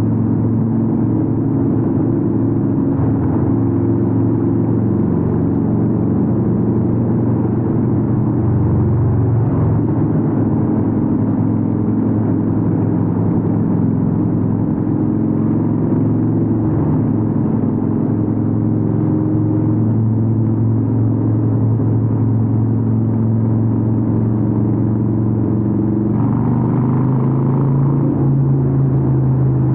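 Harley-Davidson 883N Sportster's air-cooled V-twin running steadily through Vance & Hines aftermarket exhausts while riding, its pitch stepping up slightly near the end.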